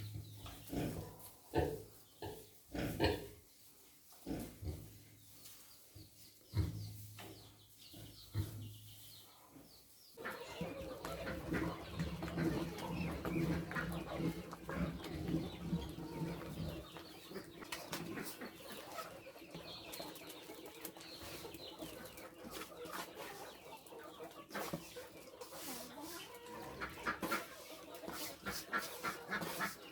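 Farmyard animal sounds: scattered knocks and short low grunts, then from about ten seconds in a denser, steadier mix of clucking poultry.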